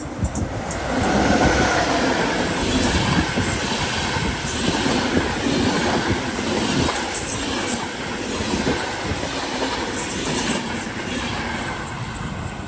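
A train passing close by, its wheels running along the rails with a steady loud rumble that builds up about a second in, with scattered sharp high clicks from the wheels on the track.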